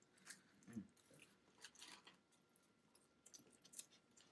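Faint sounds of people biting into and chewing pizza: soft, scattered mouth clicks and small bites.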